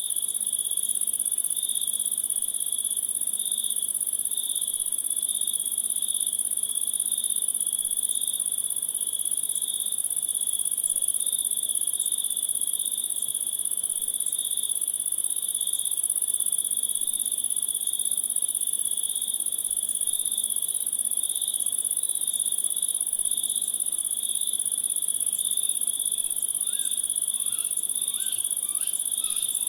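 A steady chorus of night insects trilling without a break at two high pitches, one shrill and one higher still. Near the end, a few short repeated chirps join in.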